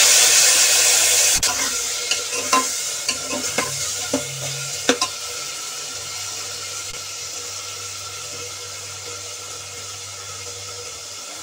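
Chopped tomatoes sizzling in hot oil and cumin in a pressure cooker, the hiss loud at first and slowly dying down. A steel ladle stirs them, clinking against the pot several times in the first five seconds.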